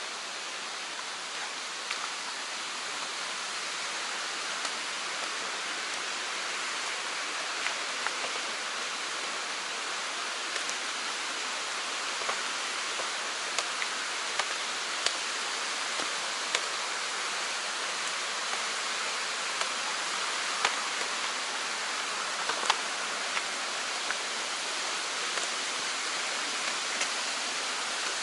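Mountain stream rushing steadily, swollen after rain and growing slightly louder, with scattered sharp ticks over the water noise.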